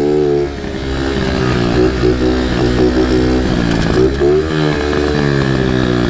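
Baja pit bike engine running while being ridden. The revs drop off about half a second in, then build back up and keep rising and falling with the throttle.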